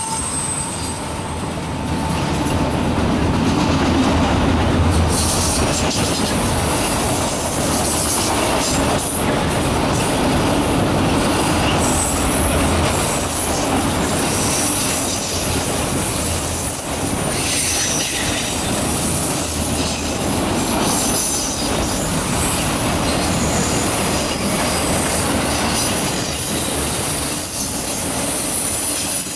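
Freight train of autorack cars rolling past: a steady rumble and rattle of steel wheels on the rails.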